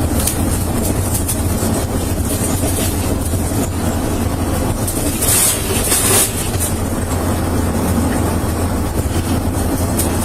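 Steady low rumble of a moving vehicle, engine and road noise together, with brief hissy swells about five and six seconds in.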